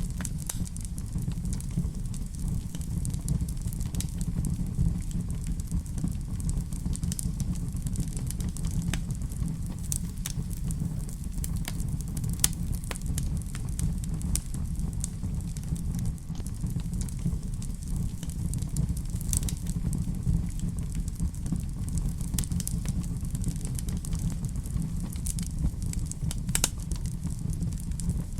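Fireplace fire crackling steadily: scattered sharp pops and snaps, one louder about twelve seconds in, over a low, even rumble of the flames.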